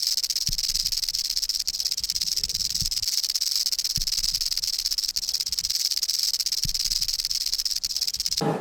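Rattlesnake shaking its tail rattle: a steady, dry, high buzz that cuts off suddenly near the end.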